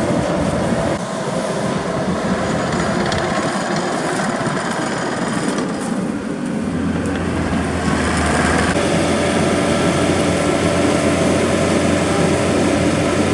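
Tracked skid steer's engine running steadily while it works, its note deepening and growing a little louder about halfway through as it takes more load.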